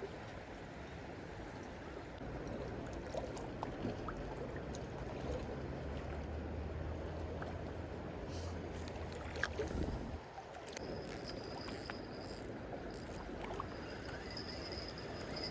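Water lapping and a low steady engine hum, the kind a passing boat makes, which drops away about ten seconds in. About eleven seconds in, an insect starts a steady high trill.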